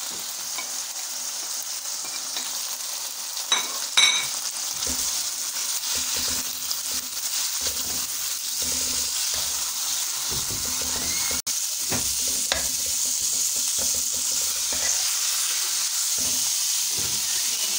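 Chicken pieces sizzling in hot oil in a non-stick wok, while a spatula scrapes and stirs them through the spices in repeated strokes. Two sharp knocks come about three and a half and four seconds in.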